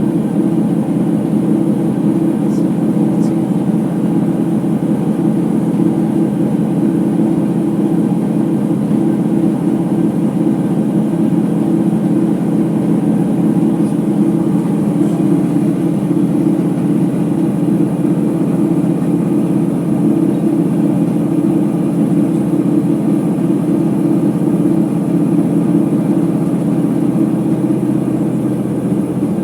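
Ipso HF 65 commercial washer spinning at steady high speed in its final spin, a loud, even rumbling drone from worn drum bearings.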